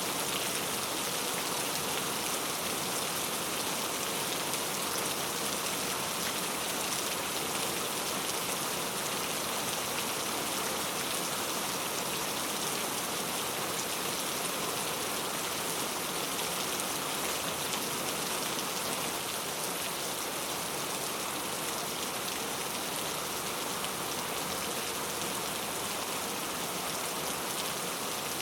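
Heavy rain falling on mango leaves: a steady, even patter of countless drops on the foliage.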